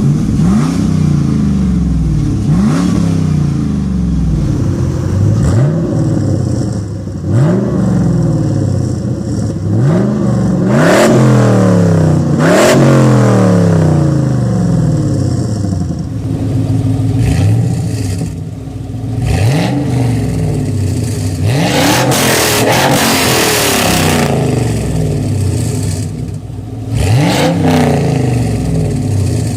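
Dodge Viper GTS's V10 engine being revved over and over through its exhaust, each rev climbing sharply and falling back to idle. Near the middle comes a longer, louder stretch with a strong hiss.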